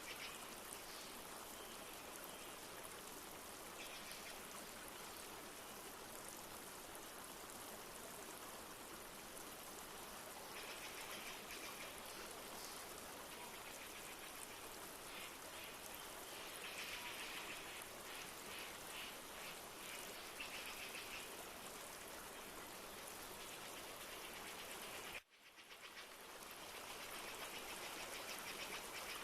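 Steady rush of a flowing river, with bird calls in rapid, repeated chirps over it. The whole sound cuts out abruptly about 25 seconds in and fades back in over a few seconds.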